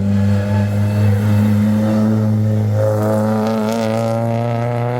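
Rally car engine held at steady high revs, a constant pitched drone; about three seconds in, a second wavering engine note joins it.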